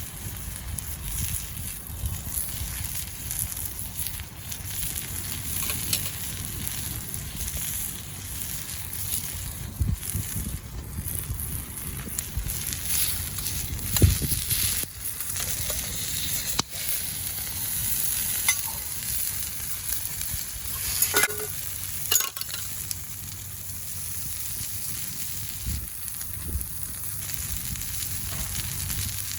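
Hamburg steak sizzling steadily in a pan over a wood fire, with scattered small crackles and a few sharper knocks.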